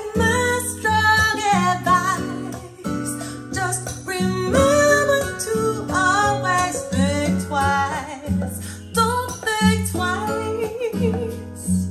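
Music playing through Sound Dynamics RTS-3B-1 bookshelf speakers: an acoustic-guitar arrangement with a steady bass line and a gliding melody over it.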